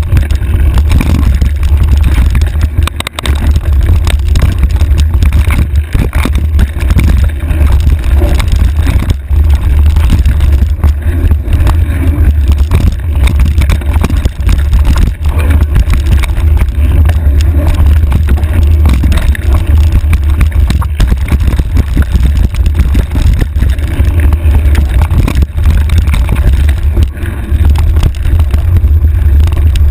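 Heavy wind buffeting on a handlebar-mounted camera's microphone as a mountain bike rides a dirt trail. The steady low rumble is broken by frequent short knocks and rattles from bumps in the trail.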